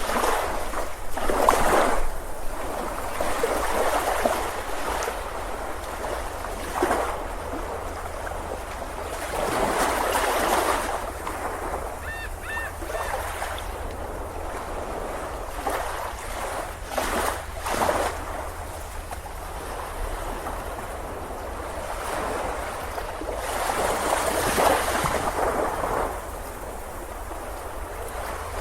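Ocean surf: waves breaking and washing up a beach, swelling and falling back every few seconds. A faint short double chirp sounds about twelve seconds in.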